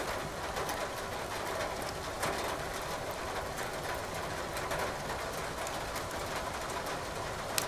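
Burning firewood crackling in a fireplace: scattered sharp pops over a steady hiss of rain, with one louder pop near the end.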